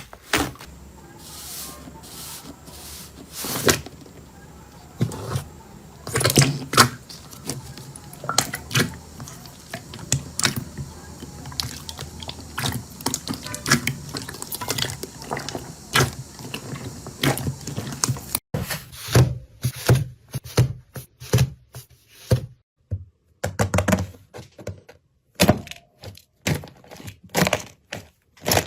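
Slime being squeezed and played with by hand, giving irregular sharp clicks and pops. About two-thirds of the way through the background hiss drops out suddenly and the pops come sparser and cleaner.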